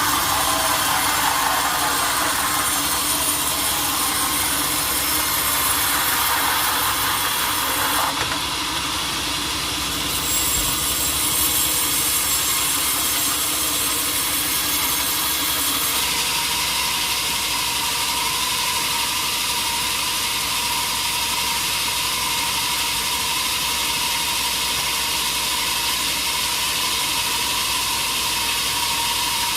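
Sawmill machinery running and a saw cutting through a large teak log. It is a steady mechanical noise that changes abruptly several times, with a steady whine in the later part.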